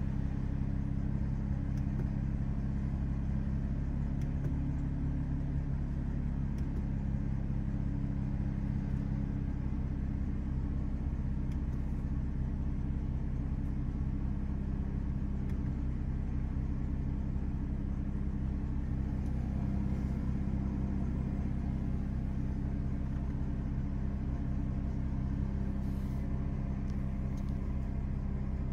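BMW M235i's turbocharged straight-six, fitted with an aftermarket air intake and a Milltek exhaust, idling steadily, heard from inside the cabin.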